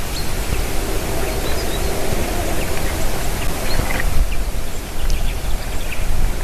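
Steady rushing wind noise, heaviest in the low end, with a few faint, short, high bird chirps scattered through.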